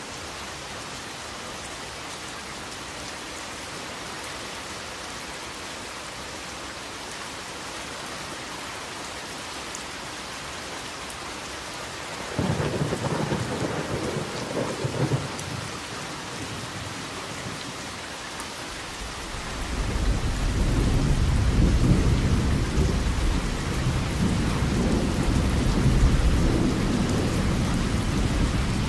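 Steady heavy rain falling. About twelve seconds in, a sharp thunderclap cracks for a few seconds. A long, deep roll of thunder builds a few seconds later and keeps rumbling under the rain.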